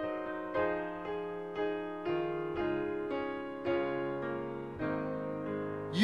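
Slow, gentle piano music: chords struck one after another, a new one every half second to a second, each left to ring.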